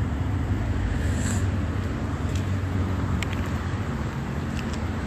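Steady low rumble of street noise, with a few faint clicks.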